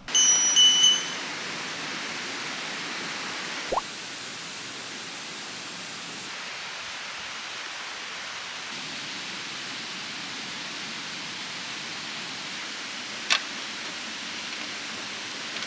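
Steady rushing of a mountain stream. A short, loud ringing sound comes right at the start, and there is a single sharp click near the end.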